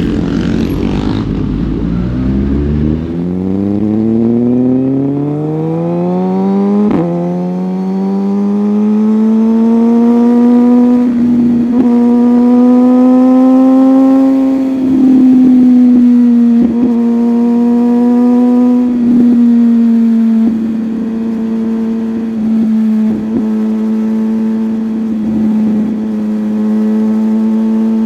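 Superbike engine accelerating hard: its note climbs over several seconds, then holds steady at high revs, with brief dips every few seconds. Low wind rumble is heard at first.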